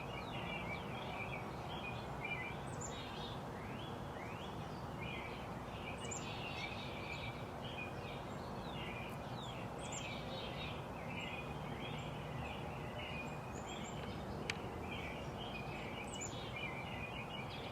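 Several small birds chirping and twittering continuously over a steady background hiss. A single sharp tick sounds about three-quarters of the way through.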